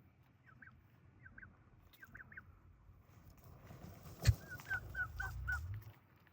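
Young turkeys peeping in short, high chirps, a few scattered at first and then a quick run of five or six near the end. A single sharp knock comes just before that run.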